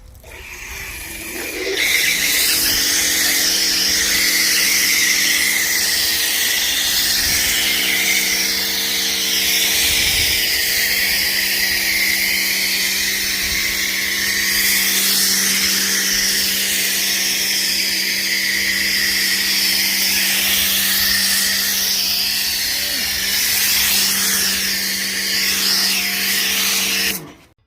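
Pressure washer running with a foam cannon spraying: a steady motor hum under a loud spray hiss. It builds up over the first couple of seconds and cuts off sharply near the end.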